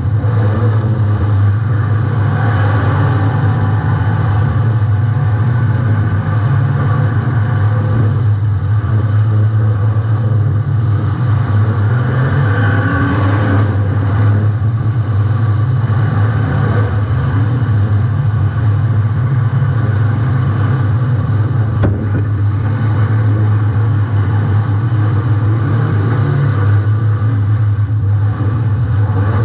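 Engine of a welded compact demolition-derby car running with a steady low drone.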